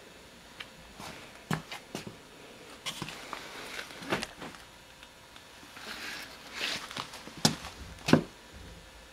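Irregular knocks and scuffs of someone moving about close to the microphone, a dozen or so sharp hits with the loudest near the end, and a brief hiss about six seconds in.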